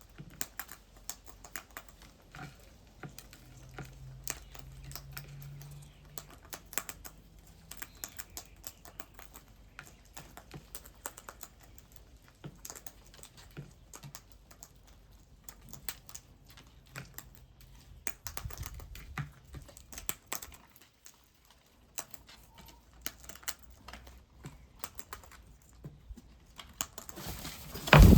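Many quick, irregular light clicks and taps, like typing, with a louder noisy burst near the end.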